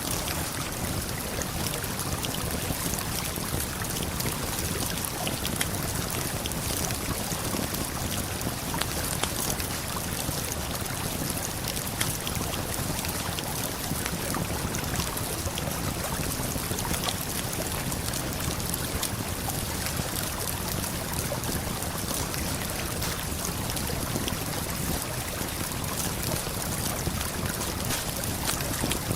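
Steady rushing of a waterfall and flowing river, with sparse sharp crackles from a wood campfire over it.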